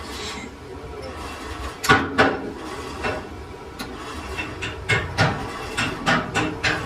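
Irregular metal knocks and clanks over a steady machine hum, as of gear parts being handled and worked in a lathe shop; the loudest strikes come about two seconds in and again near five seconds.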